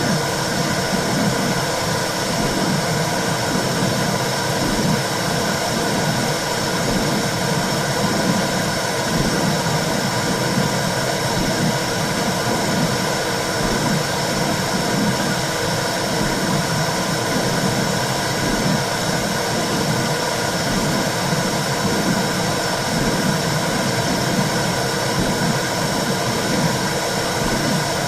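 Womb-sound recording for soothing a baby: a steady whooshing, rumbling noise with a rhythmic low pulsing running through it.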